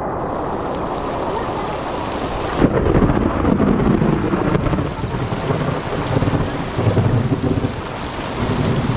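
Heavy rain falling, a steady hiss joined about two and a half seconds in by louder, uneven low rumbling.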